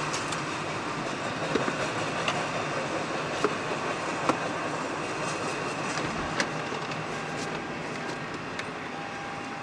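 Freight train of autorack cars rolling past: a steady rumble of steel wheels on the rails with scattered sharp clicks and clanks. About two-thirds of the way through, a thin steady squeal of the wheels comes in.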